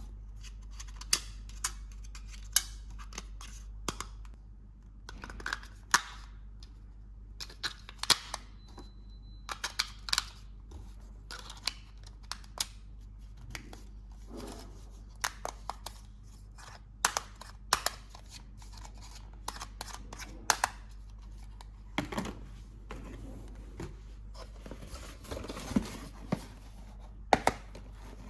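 Toy unboxing: plastic packaging and parts being handled and cut, a run of irregular sharp clicks and snips, with a stretch of plastic rustling and tearing about 25 seconds in.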